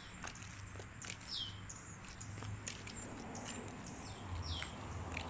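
Birds chirping: many short high chirps, with two clearer calls that drop in pitch, one about a second and a half in and one near the end. A low steady hum runs underneath.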